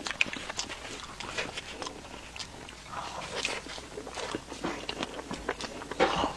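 Close-miked chewing of cream puffs: a rapid, irregular string of small mouth clicks and smacks.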